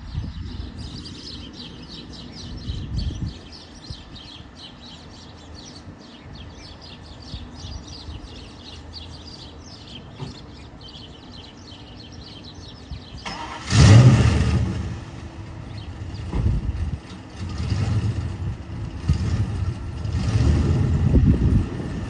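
1996 Ford Mustang GT's 4.6-litre V8 running low at first while birds chirp, then revved hard about halfway through and blipped several more times near the end.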